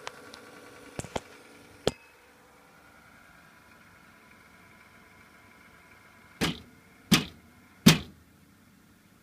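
Corsair CX600M power supply running with a steady whine and hum and a few light clicks, all of which stop about two seconds in. Three sharp knocks follow near the end, less than a second apart.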